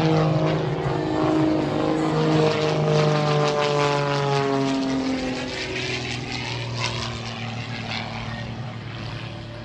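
A propeller airplane makes a fast pass. Its engine note drops steadily in pitch as it goes by, then fades away.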